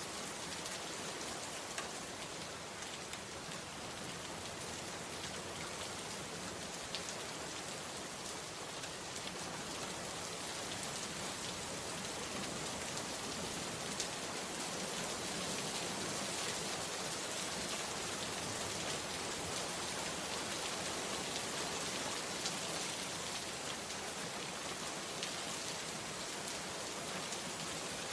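Steady rain falling, with scattered sharper drop ticks standing out from the even hiss.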